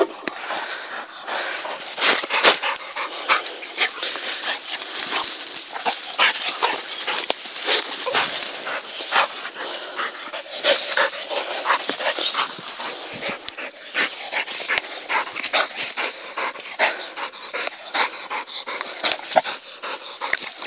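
Shepherd dogs tearing at and chewing a freshly killed wild boar carcass: a busy, irregular run of short crackles and snaps.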